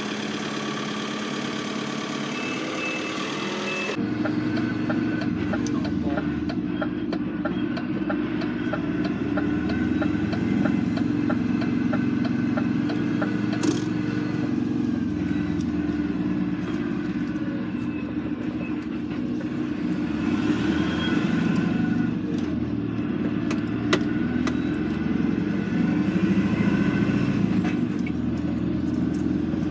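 Lorry's diesel engine running steadily, the sound changing abruptly about four seconds in.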